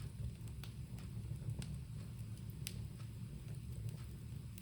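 Fire burning in a home fireplace: a few sharp, irregular crackles and pops over a steady low rumble.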